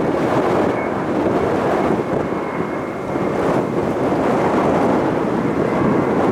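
Loud, steady jet engine noise from a Boeing 747-400's four engines as it climbs out after takeoff: a deep rushing rumble with a faint high whine over it.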